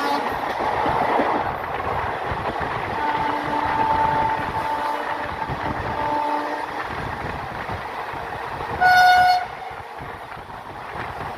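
Passenger train running, with steady rumble and rail noise. A train horn sounds for a few seconds, and about nine seconds in a short, loud horn blast stands out.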